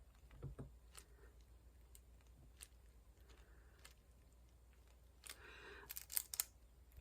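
Faint, scattered ticks and taps of diamond painting: square resin drills being picked up and pressed onto the canvas with a drill pen. A short rustle and a quick cluster of clicks come near the end.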